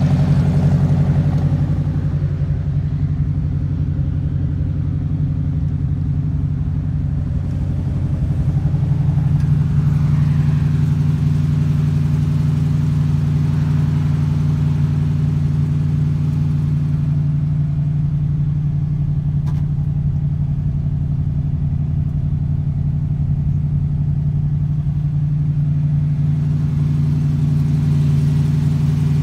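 1965 Ford Mustang's engine idling steadily on its first run of the year.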